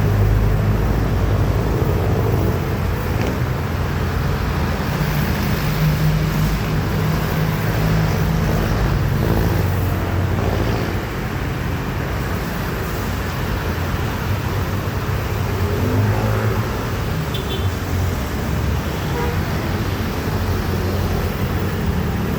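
A car's engine running with a steady low rumble under a continuous hiss.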